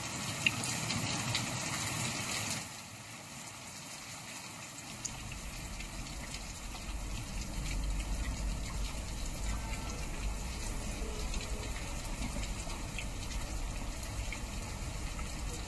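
Rain falling in gusty wind, a steady hiss. From about five seconds in, a deeper rumble of wind gusts joins it.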